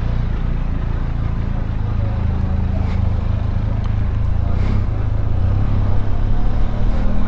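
Benelli TRK 502X parallel-twin motorcycle engine running under way with a steady low rumble, getting a little louder about six seconds in.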